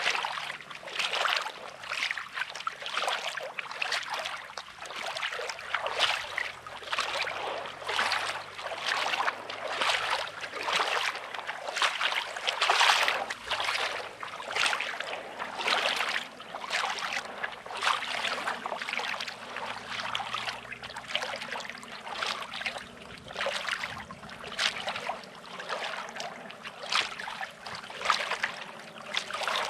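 Small sea waves lapping and splashing on a rocky shore, in quick irregular washes a little over one a second.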